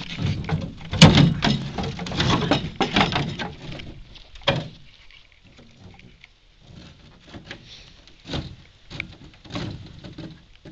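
Irregular scraping and clattering of metal parts on a go-kart being handled, densest in the first few seconds with a loud knock about a second in, then sparser knocks. No engine is running.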